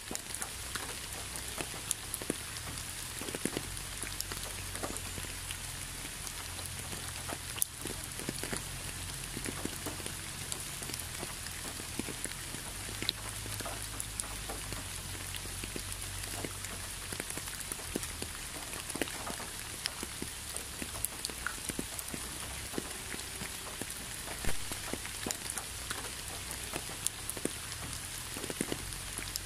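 Steady rainfall, an even hiss dotted with many individual drops ticking sharply onto a surface, over a low steady rumble.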